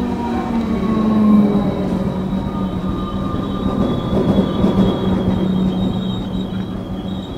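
Comeng electric suburban train pulling in and slowing along the platform: its motors hum and several tones slide down in pitch. A high thin squeal grows from about halfway through.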